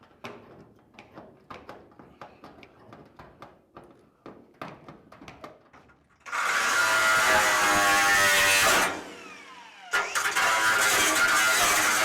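Scattered light clicks and knocks of tools and sheet metal being handled. Then a cut-off wheel cuts into the overlapping sheet-steel roof panel in two bursts of about three and two seconds, its whine falling away as it spins down after each cut.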